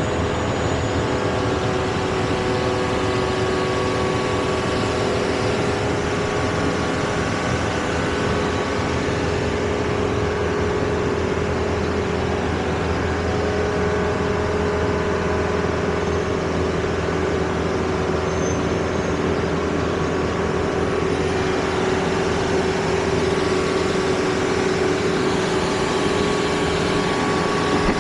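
A vehicle's engine and road noise heard from inside the cab: a steady hum with a few held tones and no clear changes.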